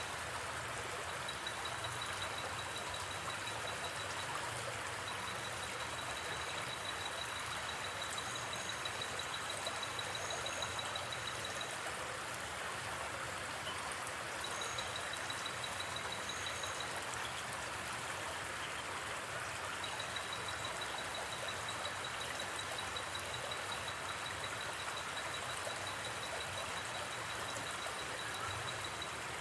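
Gently flowing river water, a steady rushing. Over it runs a high, rapidly pulsing trill of night insects that stops and starts several times.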